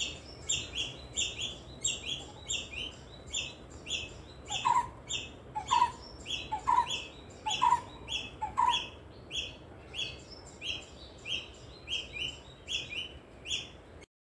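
Wild birds calling. One repeats a short high chirp about twice a second throughout. A second bird gives a lower, falling call about once a second, five times in the middle. The sound cuts off abruptly near the end.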